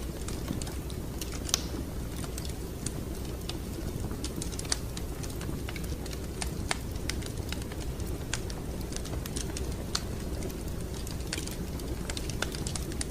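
Wood fire crackling in a fireplace: irregular sharp snaps and pops, a few of them louder, over a steady low rumble.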